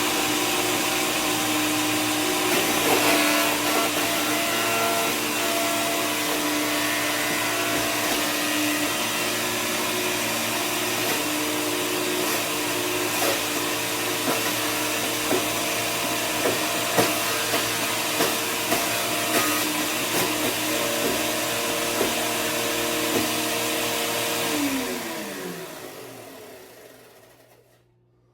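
LawnMaster 15-amp electric chipper shredder running steadily while shredding cardboard, with scattered knocks as pieces go through the cutter. About 25 seconds in it is switched off and its motor winds down, the pitch falling, and dies away.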